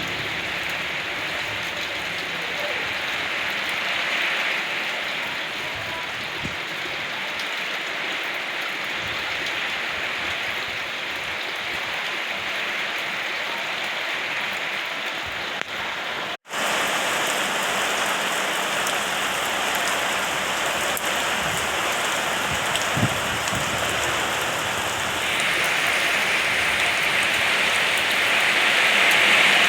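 Steady rain falling, an even hiss of drops that cuts out for an instant about halfway through and grows louder near the end.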